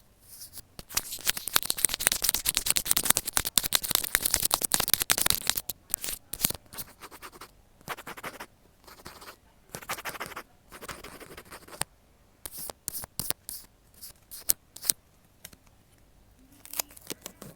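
A needle scratching and poking repeatedly at some material: rapid, crisp scratching for about five seconds, then shorter bursts of scratches and clicks with pauses between them.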